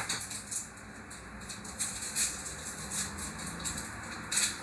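Faint kitchen handling noises: a few short scrapes or rustles over a low hum, the loudest near the end.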